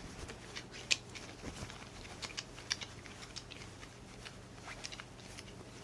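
Quiet room tone with a faint steady hum and scattered soft clicks and taps.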